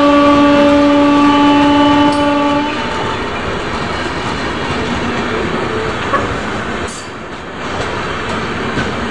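A train horn holds one long steady blast, several tones together, that stops about two and a half seconds in. After it the wheels of a passing express's LHB coaches rumble steadily past on the rails.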